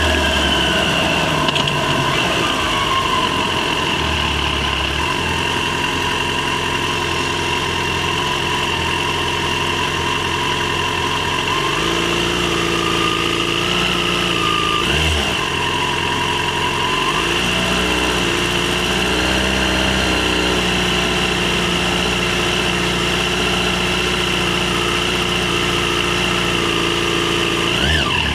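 Yamaha FZ6's inline-four engine running at steady revs while riding, its pitch stepping to new levels a few times and rising quickly near the end.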